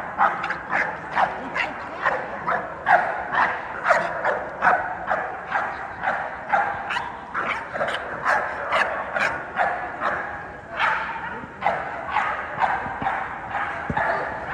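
Dogs, American Pit Bull Terriers, barking and yipping over and over in a steady run of about two to three sharp barks a second.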